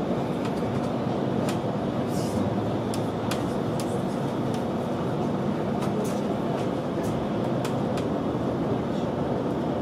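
Steady running rumble of an Intercity 2 Twindexx double-deck train at speed, heard inside the coach, with scattered light clicks over it.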